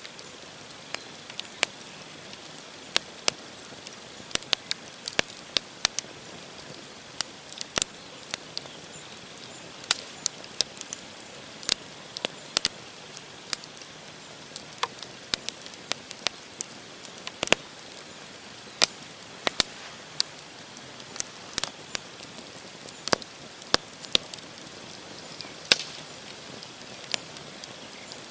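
Wood campfire burning, with frequent sharp, irregular crackles and pops from the burning logs over a soft steady hiss.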